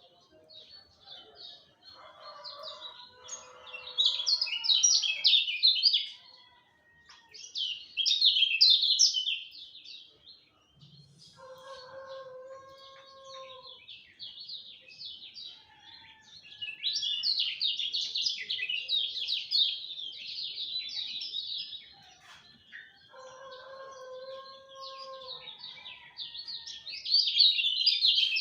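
Kecial kuning songbird singing fast, chattering phrases in bursts of a few seconds, with short pauses between. A lower, steadier call from another bird comes in three times, about ten seconds apart.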